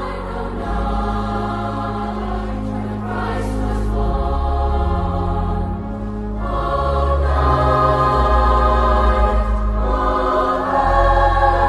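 Choral Christmas music: a choir singing held chords over a bass line that moves in slow steps.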